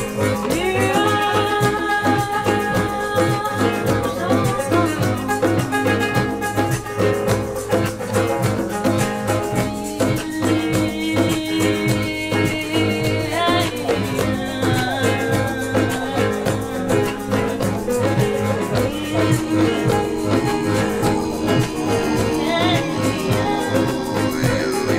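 A band playing a song: a steady beat with held melody notes over it.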